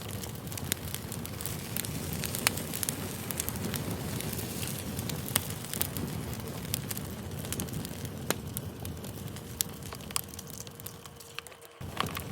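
Campfire burning, a steady rush of flames with frequent irregular crackles and sharp pops of burning wood.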